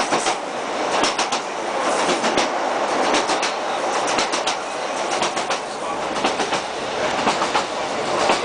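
ScotRail Class 156 Sprinter diesel train running at speed, heard from inside: a steady rushing rumble with irregular clicks and clacks of the wheels over the rail joints.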